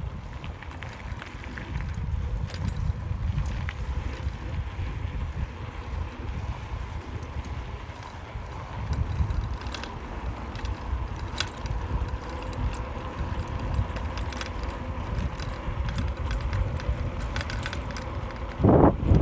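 Wind rumbling over the microphone of a camera on a moving bicycle, with scattered faint ticks. A sudden, much louder gust hits the microphone near the end.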